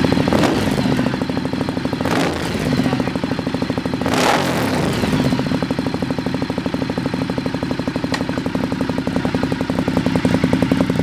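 Ducati Diavel's L-twin engine running through a Termignoni full-system exhaust, a steady loud pulsing idle with three short throttle blips in the first half.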